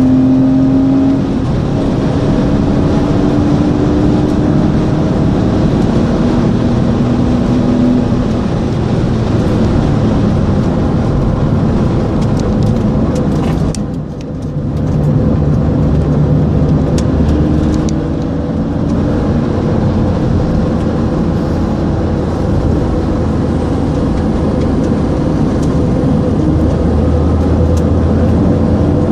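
Porsche Boxster 2.7's flat-six engine heard from inside the car at speed, its pitch climbing slowly through long pulls, with a short dip in loudness about halfway through. Wind and road noise run underneath.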